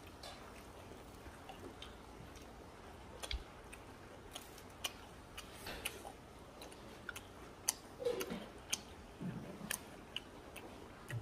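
A person chewing stuffed fried tofu close to the microphone: faint, irregular small mouth clicks and smacks throughout, with two brief falling hums about two-thirds of the way through.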